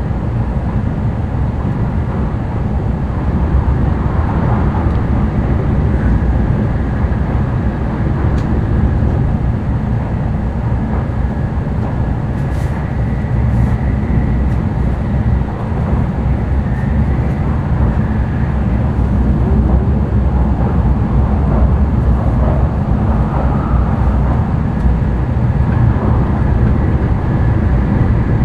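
Running noise of an N700-series Shinkansen heard from inside the passenger cabin: a steady, loud low rumble with a faint constant high whine over it.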